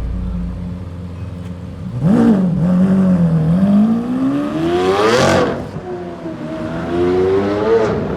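A car engine revving: a short blip about two seconds in, then a long climb in pitch that peaks around five seconds and drops away, and another rise near the end.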